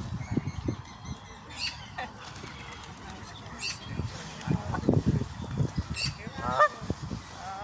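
Birds calling: a short high call repeated about every two seconds, and a wavering call near the end, over low thumps.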